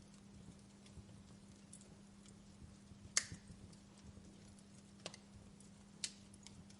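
Wood fire crackling in a fireplace: a soft steady hiss broken by a few sharp pops, the loudest about halfway through and two smaller ones later.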